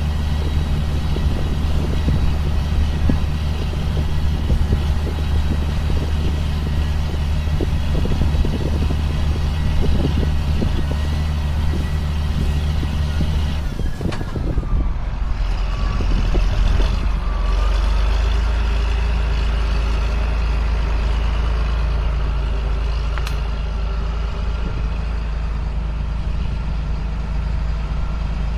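Diesel engine of a 2005 John Deere self-propelled sprayer running steadily. About halfway through, its note drops lower and holds there.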